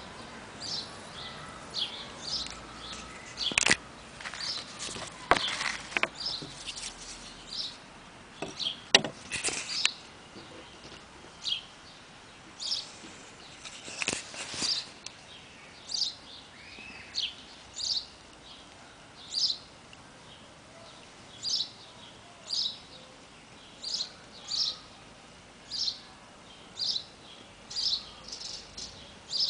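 A bird chirping over and over, short high chirps about once a second. A few louder, sharper clicks stand out in the first half.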